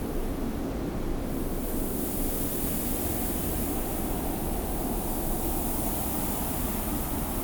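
Steady desert wind with a low rumble, and the hiss of blowing sand that grows stronger about a second and a half in.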